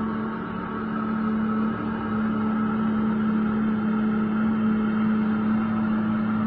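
Heavy machine engine running at a steady speed, a constant unchanging drone.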